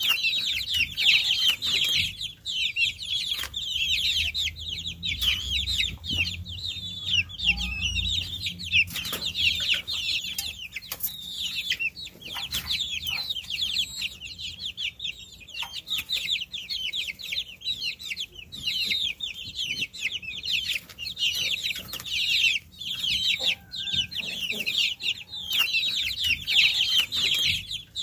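A crowd of baby chicks peeping constantly, many high, short downward-sliding chirps overlapping with no pause.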